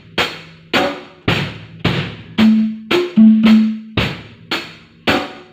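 Drum kit played in a steady beat, with sharp snare and bass drum hits about twice a second, some with a short low ring.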